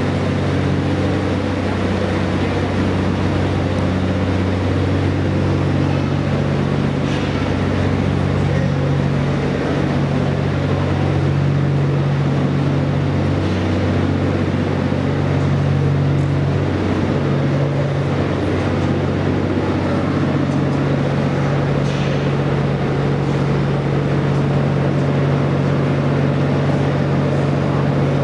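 Steady low mechanical drone of a standing railway vehicle's running machinery, even in level throughout, with a couple of faint clicks.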